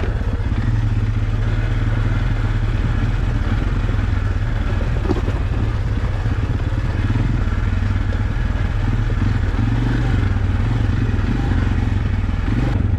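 Off-road vehicle engine running steadily under load as it travels along a rough forest trail.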